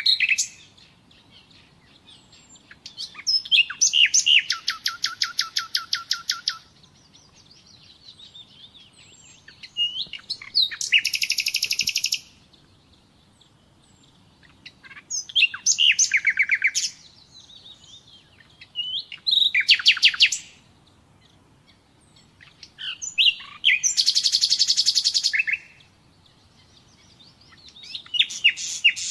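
Common nightingale singing: about seven song phrases of rapid repeated notes and trills, each one to three seconds long, separated by pauses of a few seconds.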